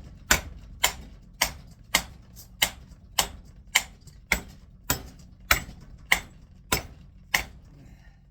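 Hammer blows on metal, evenly spaced at a bit under two a second, about thirteen in all, stopping near the end: knocking the armature out of a speed reducer motor clamped in a vise, held back by the motor's strong magnet.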